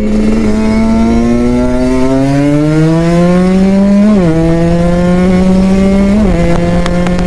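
Kawasaki Ninja RR 150's two-stroke single-cylinder engine under way, its pitch climbing steadily as it accelerates, then dropping sharply about four seconds in and again about six seconds in, as at gear changes.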